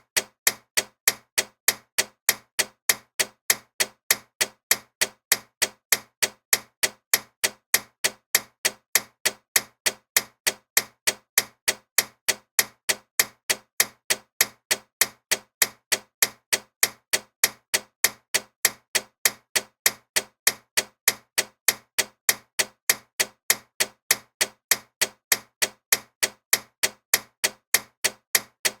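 Loud ticking clock: sharp, evenly spaced ticks several times a second, alternating slightly louder and softer, going on without a break.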